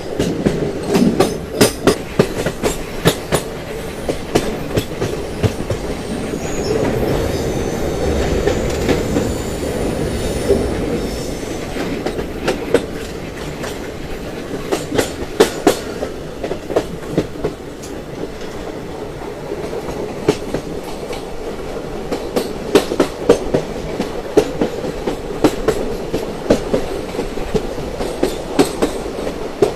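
Train running along the track, its wheels clacking over rail joints in sharp irregular clicks over a steady rumble. Faint high-pitched wheel squeal comes in from about seven to eleven seconds in.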